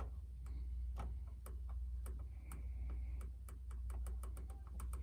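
Scattered small clicks and light taps of hand-handling, coming faster in the second half, over a steady low electrical hum.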